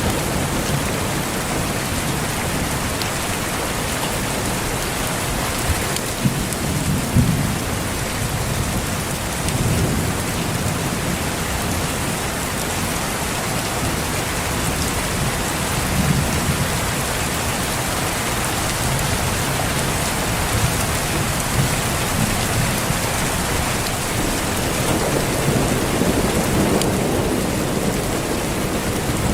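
Steady heavy rain falling on surfaces, with low rolls of thunder swelling a few times, around 6 to 10 seconds in, near 16 seconds and again near the end.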